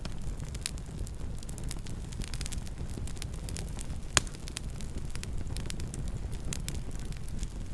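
Campfire burning, a steady low rumble with scattered crackles and one sharp pop about four seconds in.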